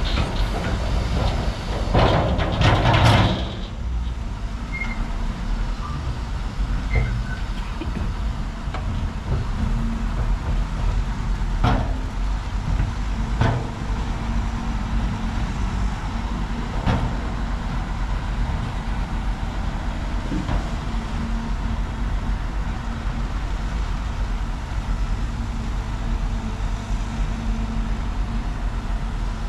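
Heavy diesel earthmoving machinery running steadily with a low rumble. About two seconds in comes a loud, harsh burst of noise lasting about a second, and a few sharp knocks follow later.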